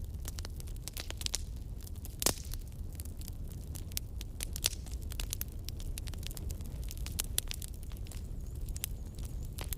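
Wood campfire burning, with irregular crackles and snaps over a steady low rumble of flame; one louder pop a little over two seconds in.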